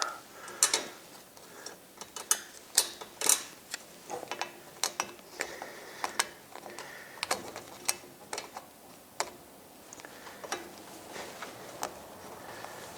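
Hand tools and metal parts clicking and clinking irregularly while the chain pulley assembly of a garage door opener is taken apart. The loudest knocks come in the first few seconds.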